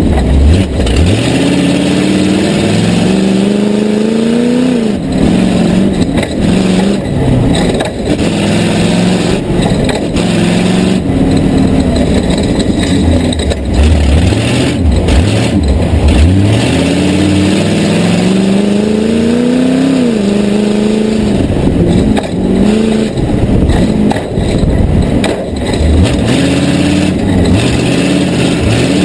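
Tough truck engine revving hard and accelerating, its pitch climbing then dropping again several times as the driver gets on and off the throttle, with frequent knocks and thumps.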